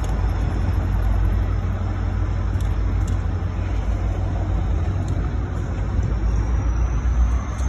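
Low, steady rumble of a train making a shoving (pushback) movement, with a thin high whine rising slowly near the end.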